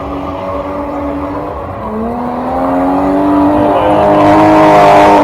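BMW E30 engine running hard, holding a steady pitch and then climbing in pitch and getting louder from about two seconds in as it revs up.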